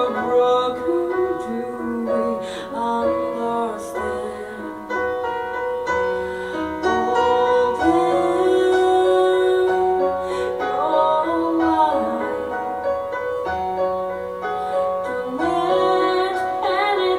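A woman singing a slow melody with sliding and held notes over instrumental accompaniment in a live performance.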